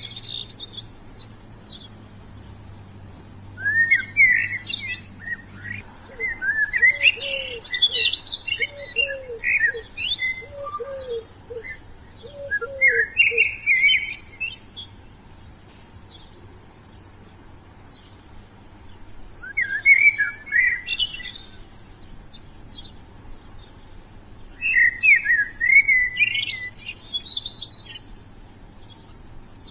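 Wild songbirds singing in bouts of quick chirps and warbled phrases, four bouts with short pauses between them. A lower, short falling note repeats about once a second in the first half.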